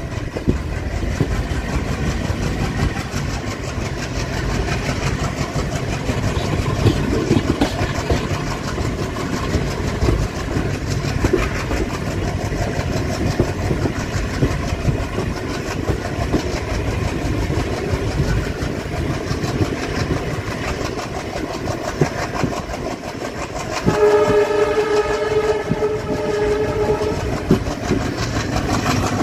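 Express passenger train of ICF coaches running at speed, heard from aboard: steady rumble with wheels clattering over the rails. Near the end a train horn sounds once, held for about three seconds.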